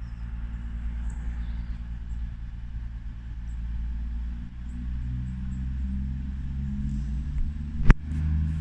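Diesel engines of a CrossCountry Voyager multiple unit running at the platform, with a steady low rumble that rises in power about halfway through as the train throttles up to depart. A single sharp click near the end.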